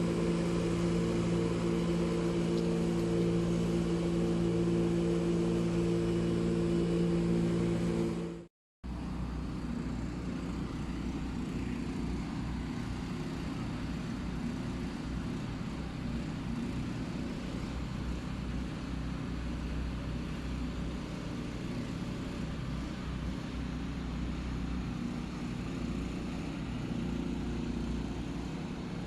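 Engine noise: a steady droning engine hum for about eight seconds, cut off abruptly. After a moment of silence a lower, rougher engine rumble runs on steadily.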